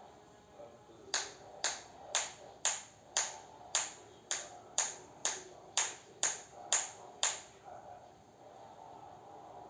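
Thirteen sharp snaps in a steady beat, about two a second, starting about a second in and stopping after about six seconds.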